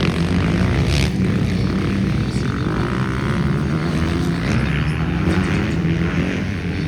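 Several motocross motorcycles racing on the track, their engines running together and revving up and down as the riders work the throttles.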